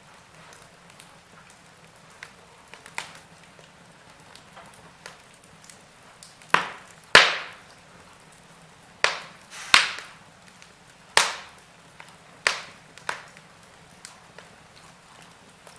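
Wood fire crackling, with a faint steady hiss and scattered small clicks, and a cluster of loud, sharp pops of burning wood from about halfway through.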